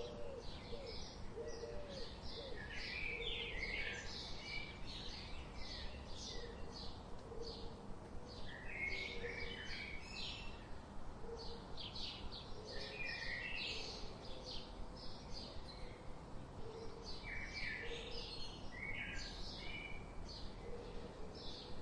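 Many birds chirping and singing in a continuous chorus, with short high chirps throughout and some lower cooing notes underneath, over a steady background hiss.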